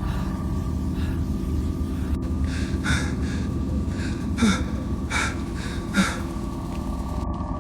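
Heavy breathing or gasping, four or five breaths about a second apart starting about three seconds in, over a steady low rumble.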